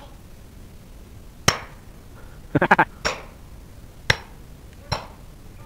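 A series of sharp knocks, each with a short ring: a single blow, a quick flurry of three or four, then three more single blows spaced about a second apart.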